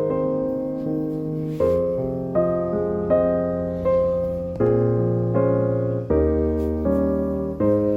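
Background piano music: gentle chords struck and left to ring, changing about every second.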